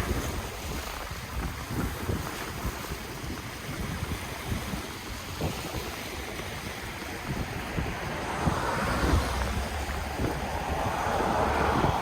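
Ocean waves washing on the shore, with wind buffeting the microphone in low rumbles. The surf swells louder twice in the second half.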